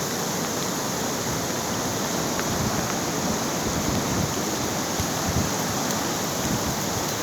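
Steady rush of floodwater, with wind buffeting the microphone in a few low thumps.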